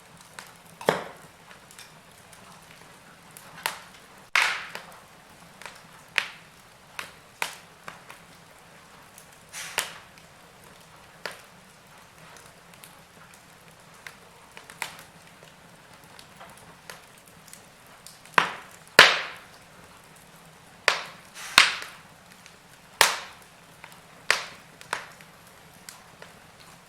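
Wood fire crackling: irregular sharp cracks and pops over a faint steady hiss, with the loudest pops bunched around two-thirds of the way through.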